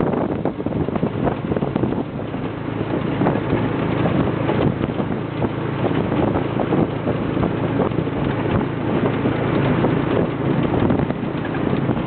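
Wind buffeting the microphone on a moving motorcycle, with the engine running as a low steady hum underneath.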